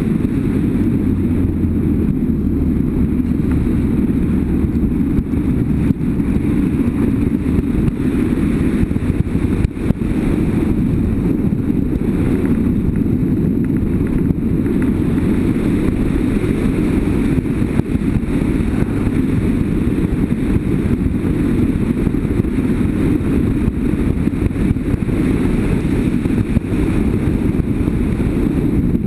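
BMW F800GS motorcycle ridden at a steady pace: the engine running under a heavy, steady wind rumble on the microphone.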